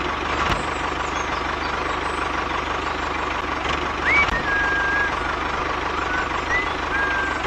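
Small motor of a DIY miniature tractor running steadily, a constant mechanical hum with a faint whine. From about four seconds in, a few short whistle-like tones rise and then hold level over it.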